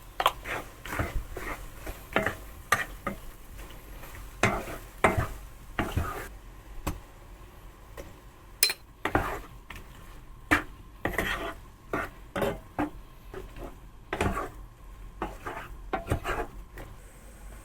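A utensil stirring food in a pan, with irregular scrapes and knocks against the pan about one or two a second and a faint sizzle underneath.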